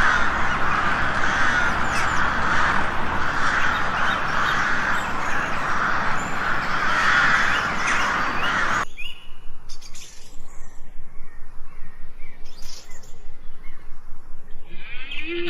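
A dense chorus of many birds calling at once, which cuts off abruptly about nine seconds in. After it come sparser, fainter single calls.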